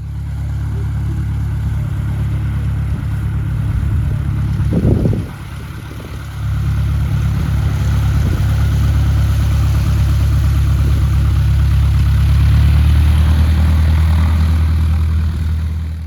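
A large piston engine running steadily and loudly, with a short louder burst just before five seconds, a dip lasting about a second and a half, then building back up to its loudest.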